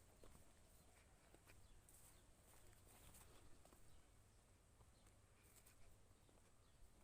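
Near silence: faint outdoor ambience with a few soft scattered clicks.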